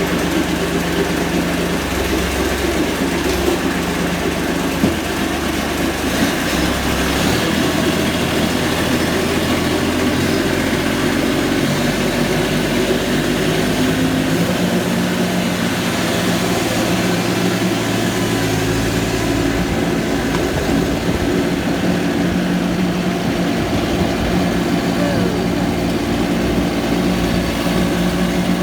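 Kubota B2650 tractor's three-cylinder diesel engine running steadily, driving the front snowblower through the engaged PTO; its note shifts slightly a couple of times.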